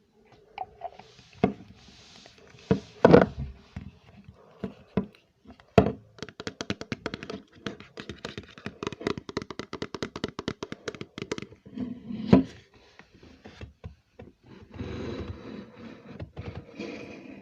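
Close-miked ASMR tapping and scraping on objects: scattered knocks, then a quick run of taps lasting about five seconds, one more loud knock, and softer scratching toward the end.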